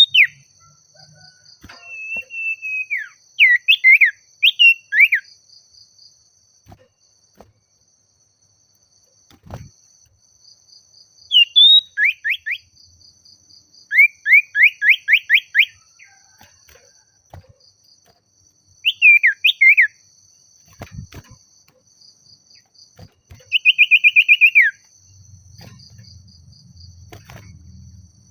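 Common iora singing: loud whistled phrases in separate bursts with pauses between, including quick runs of falling notes and a short trilled phrase near the end.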